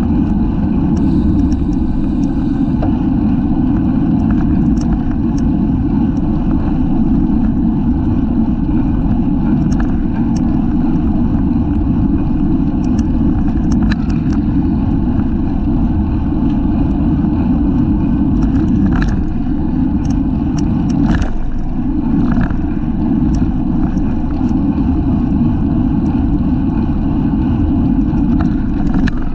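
Steady, loud wind rumble buffeting the microphone of a camera mounted on a racing bicycle ridden at speed, with scattered faint clicks and ticks.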